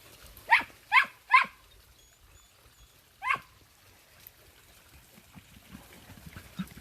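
A dog gives three quick, sharp barks about half a second in, each dropping steeply in pitch, then a single fourth bark a couple of seconds later. Faint scuffling follows near the end.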